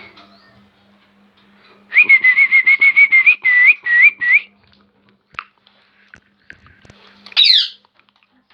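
Baby parrot giving a quick run of repeated chirping calls, about five a second for a couple of seconds, then one louder, sweeping squawk near the end.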